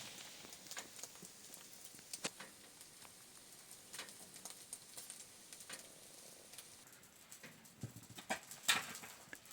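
Light, irregular clicks and taps over a faint hiss, with a louder cluster of knocks near the end.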